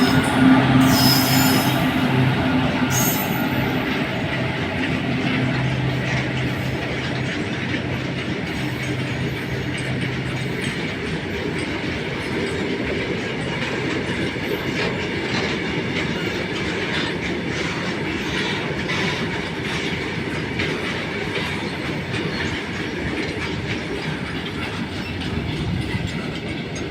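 Electric-locomotive-hauled train passing at speed, a steady loud rush and clatter of wheels on the rails that runs on throughout. A low steady tone sounds under it for the first several seconds and fades out.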